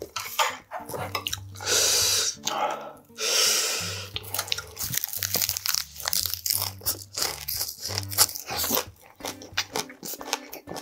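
Close-miked eating of a leafy ssam wrap of lettuce and kale with pork bulgogi: two loud crunches of fresh leaves being bitten in the first half, then chewing with many small wet crackles.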